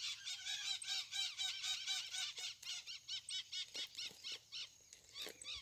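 Birds calling in quick, repeated chirps, about eight to ten a second, with a lower repeated call joining in during the first half.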